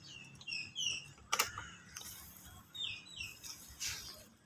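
Birds chirping in short, paired high calls. A sharp click comes about a second and a half in, with a weaker one near the end.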